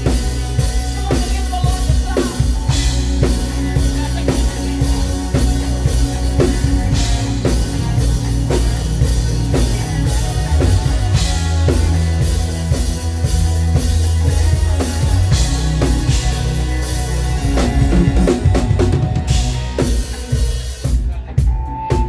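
Live band playing upbeat praise music, led by a drum kit with bass drum, snare and cymbal hits over a heavy bass line. Near the end the drums and cymbals drop out, leaving the instruments playing more softly.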